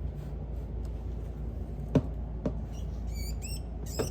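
Feeder rat squeaking in short, high, repeated squeaks near the end, after two sharp clicks about two seconds in.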